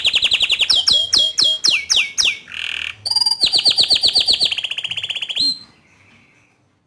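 Domestic canary (bottle-green colour variety) singing: a rapid rolling trill, then a string of quick downward-sweeping whistled notes and a short harsh buzz, then another fast trill. The song stops about two-thirds of the way through.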